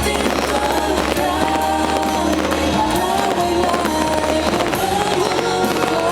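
Fireworks bursting and crackling, mixed with loud music carrying a melody.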